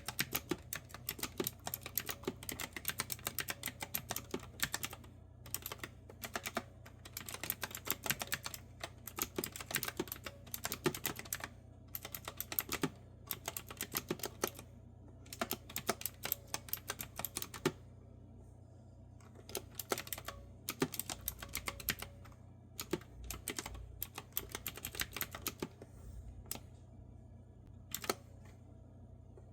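Typing on a clicky retro-style keyboard with round keys: quick, steady streams of keystrokes that thin out about two-thirds of the way through into scattered single keys with short pauses.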